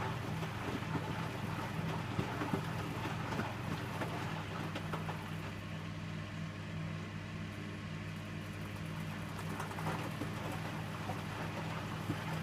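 Electrolux W455H commercial washing machine running its Synthetic 40 wash cycle, with a steady hum and a few faint clicks.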